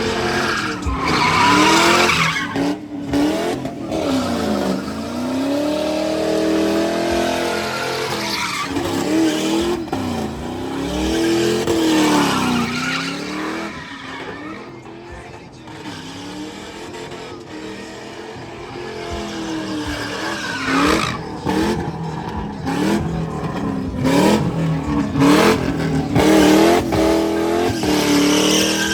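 Car engine revving up and down over and over while the tyres squeal and skid, as in burnouts and donuts.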